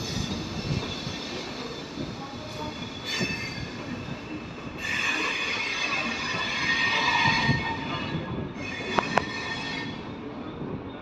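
Train rolling through a station, its steel wheels squealing on the rails in high tones that come and go over a low rumble, with two sharp clicks about nine seconds in.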